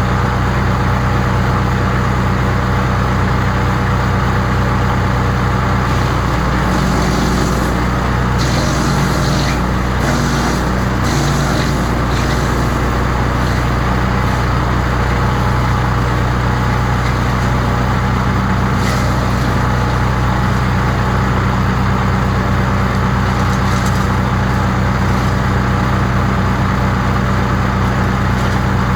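Crytec 15 HP wood chipper's petrol engine running steadily at speed. Between about seven and twelve seconds in, the note wavers and bursts of hissy crackling come through, with brief ones again later.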